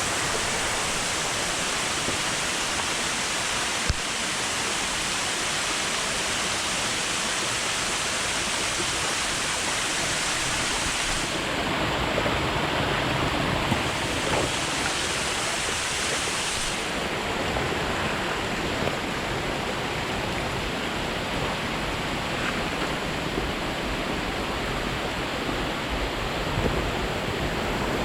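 Rushing water heard as a steady, even noise, with a single sharp click about four seconds in.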